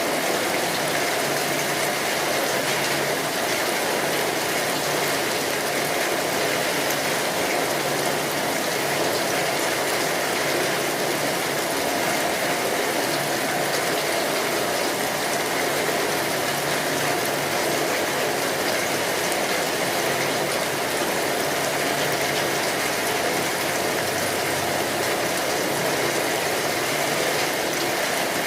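Steady rainfall, a continuous even hiss that does not change in level.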